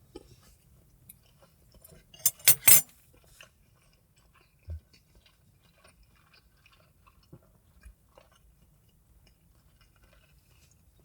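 Close-up eating and handling sounds: three sharp clicks in quick succession a little over two seconds in, a dull knock about two seconds later, and faint chewing and small clicks in between.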